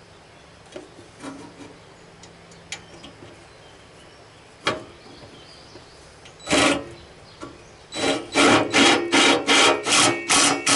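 A hand tool scraping back and forth on the hood part in quick rasping strokes, about three a second, starting about 8 seconds in. Before that come a few light clicks and one short scrape.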